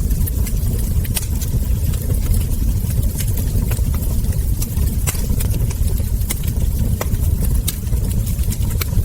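Wood fire crackling: scattered sharp pops and snaps from the burning logs and embers over a steady low rumble.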